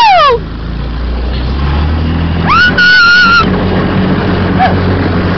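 250cc buggy engine running steadily, its note stepping up about halfway through. A single high-pitched whoop is held for about a second, a little before the middle.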